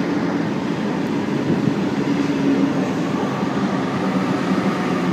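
A train standing at a station platform, a steady mechanical hum with a low drone.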